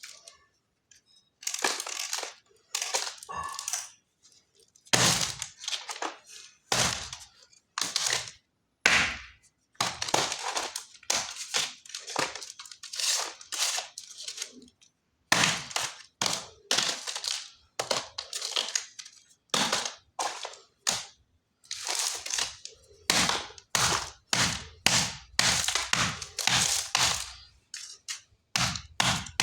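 Lumps of khadi chalk crunching and crumbling as they are crushed, in a run of separate short, crisp crunches, about one or two a second, with brief pauses between some of them.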